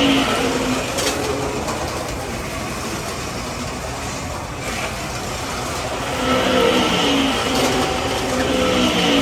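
1/32 Carrera slot race trucks running around a plastic track, their small electric motors giving a steady whirring hum. A pitched sound that steps up in pitch comes in around the middle-to-late part.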